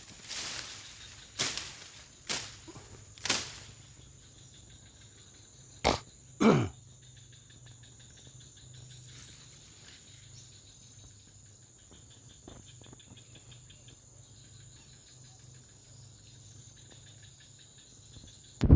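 Forest-edge ambience with a steady insect drone. It is broken in the first few seconds by several loud sharp sounds, then about six seconds in by one loud call that falls steeply in pitch. A short loud burst comes at the very end.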